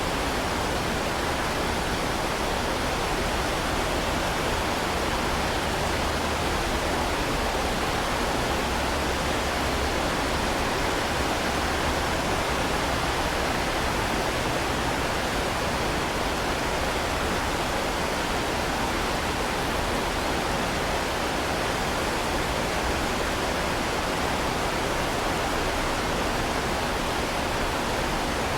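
Heavy rain falling in a steady, unbroken hiss with no separate drops or thunder standing out.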